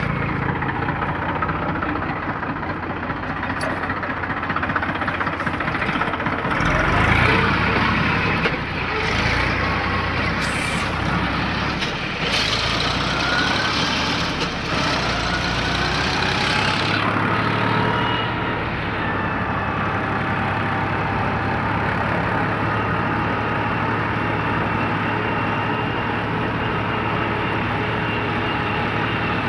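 Deutz-Fahr tractor's diesel engine running steadily under way, with a louder, noisier stretch in the first half where the pitch rises a little.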